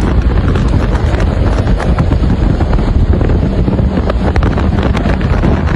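Strong dust-storm wind blasting the microphone: a loud, steady rushing roar heavy in the low end, with many small crackles through it.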